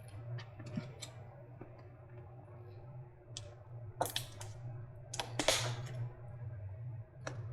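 Hands and tools working on an e-scooter battery pack's shrink wrap and tape: scattered sharp clicks and a short plastic rustle about five seconds in, over a steady low hum.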